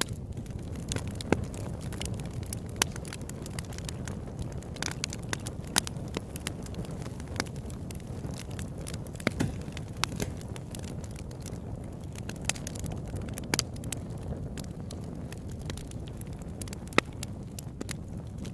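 Campfire burning with a steady low rumble of flames and irregular crackles and pops of burning wood, a few sharper snaps standing out.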